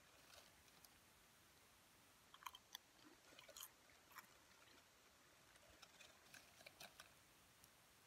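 Faint crunching of potato chips being chewed with the mouth close to the microphone, coming in irregular clusters of crisp cracks.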